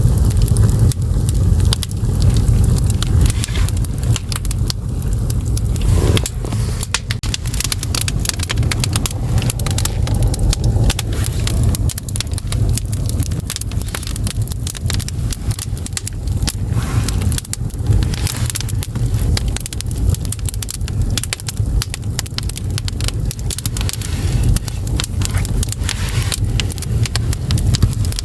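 Firewood burning in an agungi, the traditional Korean firebox under an ondol floor, with constant crackling and popping over a steady low roar of the fire's draft.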